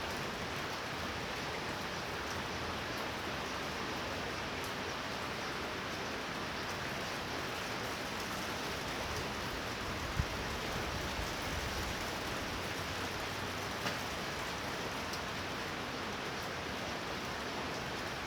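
Heavy rain in a thunder shower: a steady, even hiss with scattered faint ticks, and two brief sharp knocks about ten and fourteen seconds in.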